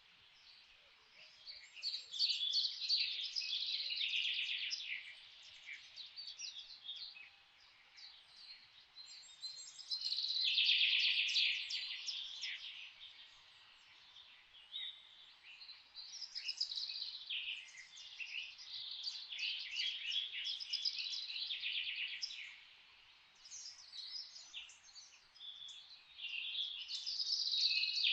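Several songbirds singing, overlapping phrases of rapid high chirps and trills that come in bursts every few seconds with quieter gaps between.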